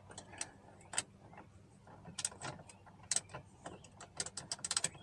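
Scattered small metal clicks and taps as a screw is worked into the mount of a replacement power-window motor inside a car door. A quick run of clicks comes about four seconds in, as the screw catches.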